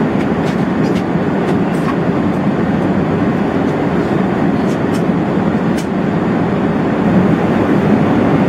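Steady loud rumble inside the passenger cabin of an Airbus A380, with a few light rattling clicks scattered through it.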